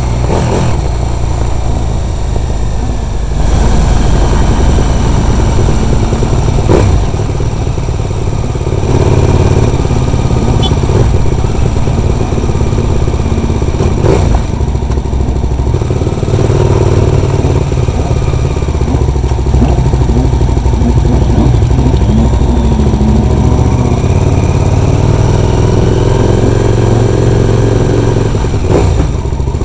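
Onboard sound of a racing motorcycle's engine running at low revs, its pitch rising and falling gently with the throttle, with a steady low rumble on the microphone. There are a few sharp knocks, at about a quarter, halfway and near the end.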